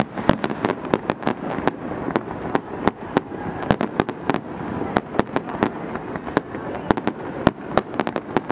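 Fireworks display going off: a rapid, irregular string of sharp bangs and cracks, several a second, over a continuous noisy background.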